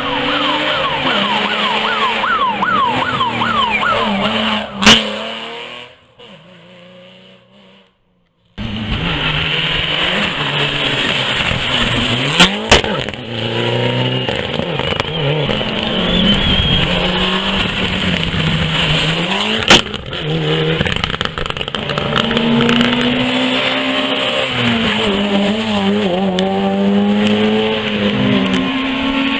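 Rally car engines at full throttle, revving hard and shifting up in quick rising sweeps, then pitching up and down as cars drive the stage. Several sharp loud cracks cut through, and the sound drops out briefly about six seconds in.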